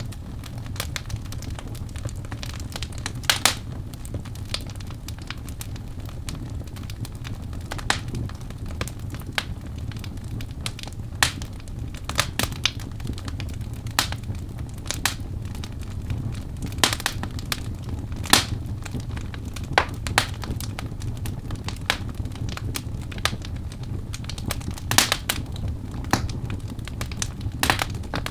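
Wood fire burning in a fireplace: a steady low rumble of flames with irregular sharp crackles and pops from the logs, a handful of them louder.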